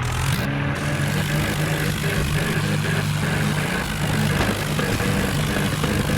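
Tractor diesel engines running steadily.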